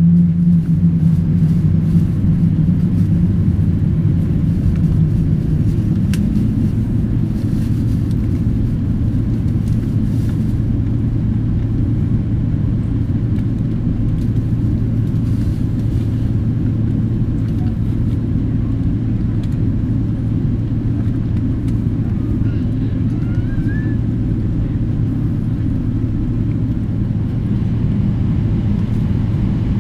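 Steady low rumble of a Boeing 777-300ER's GE90 turbofan engines running at low power, with a low hum throughout; a stronger low tone fades out in the first few seconds.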